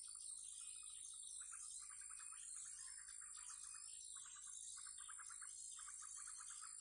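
Small songbirds chirping and twittering. From about a second and a half in, a rapid pulsing trill repeats in several bouts. A steady high insect drone runs underneath.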